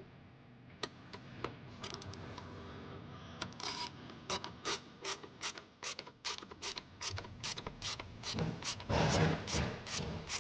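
Ratchet wrench clicking as a fastener is run in, a steady series of sharp clicks about two to three a second that begins a few seconds in, with some scraping and rubbing of metal parts.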